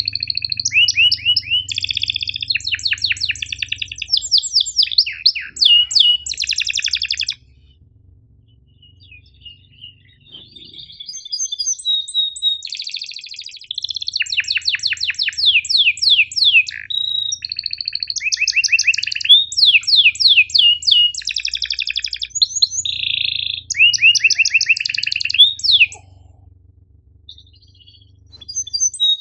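Domestic canary singing a fast, high-pitched song of rapid repeated chirps and trills in phrases of several seconds, with two short pauses.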